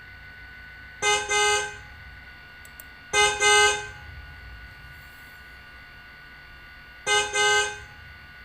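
Car horn honking: three double toots, each a short beep followed by a longer one, about a second in, about three seconds in and near the end.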